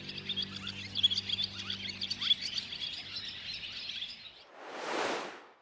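Many small birds chirping and twittering together, with a low steady hum underneath that fades out. Near the end the birdsong stops and a short whooshing swell rises and falls, then everything cuts to silence.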